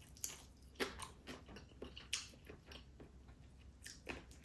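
A person chewing food with the mouth close to the microphone: faint, irregular wet mouth clicks and small crunches.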